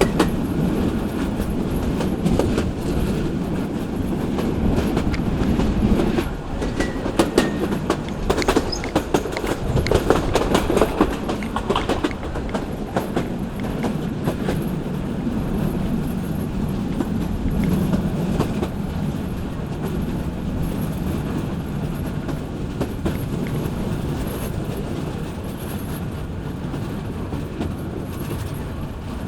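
Local passenger train running along the track: a steady rumble with wheels clacking over rail joints, the clacks coming thickest and sharpest between about six and twelve seconds in.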